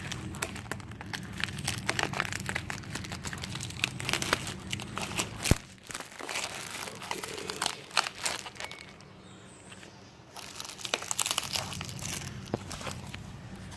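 Packaging wrap being unwrapped by hand, crinkling and rustling in irregular crackles, with one sharp knock about five and a half seconds in.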